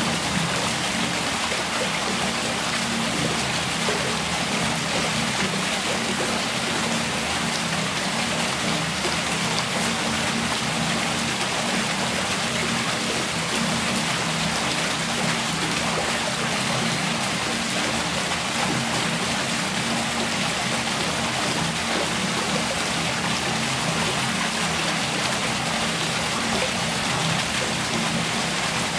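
Steady rush of running water, with a low, even hum underneath.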